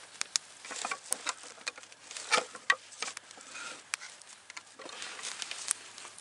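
Wood campfire crackling, with irregular sharp pops and snaps; the loudest come about two and a half seconds in.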